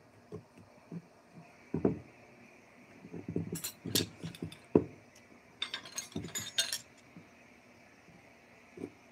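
Irregular knocks and light clinks of hard objects being handled and set down, with two quick flurries of bright clinks, one about three and a half seconds in and one around six seconds.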